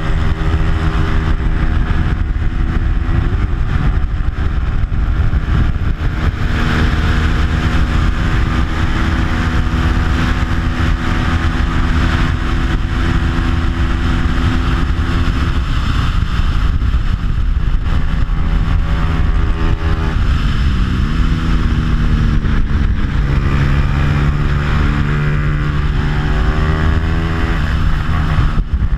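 Bajaj Pulsar 200 single-cylinder four-stroke engine, stock apart from an aftermarket exhaust, running hard at racing speed; its note falls and climbs again several times, with a marked drop about halfway through and another dip about three quarters through. Heavy wind rush on the onboard microphone under the engine.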